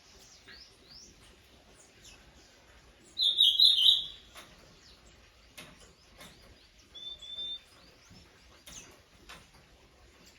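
Wild birds calling. Faint chirps run throughout, with a loud burst of rapid high notes about three seconds in and a shorter, fainter call about seven seconds in.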